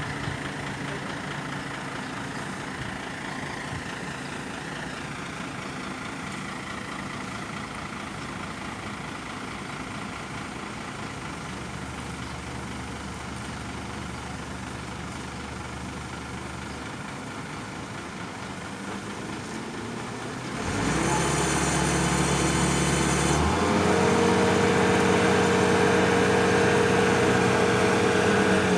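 A heavy engine idling steadily, then growing louder about two-thirds of the way through and stepping up to a higher, steady pitch a few seconds later, as if it had been throttled up.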